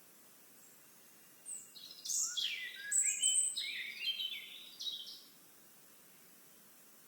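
A songbird sings one varied phrase of quick high notes, sweeps and trills, lasting about four seconds and starting about a second and a half in, over a faint steady outdoor hiss.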